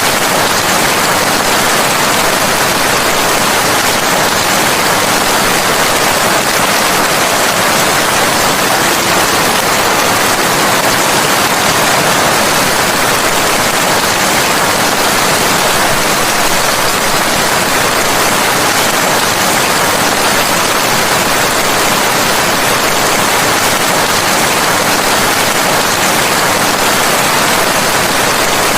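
Steady heavy rain: a dense, unbroken hiss that holds at the same level throughout, with no single drops, thunder or other events standing out.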